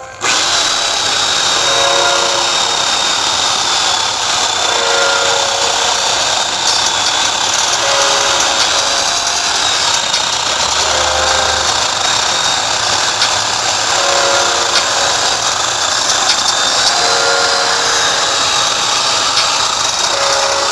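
Chainsaw running steadily at high revs through a cut. It starts abruptly, with a high whine held throughout and a brief lower tone coming back about every three seconds.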